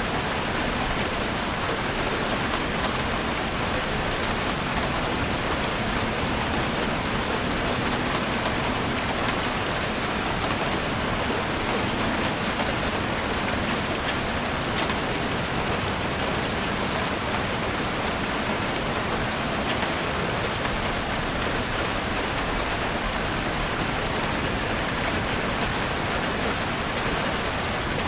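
Heavy rain drumming steadily on a roof, a dense even hiss with many small drop ticks.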